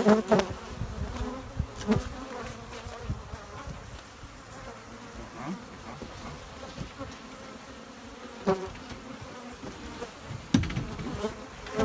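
Honey bees, Africanized, buzzing steadily in the air around the hive site, with a few scattered knocks and thumps.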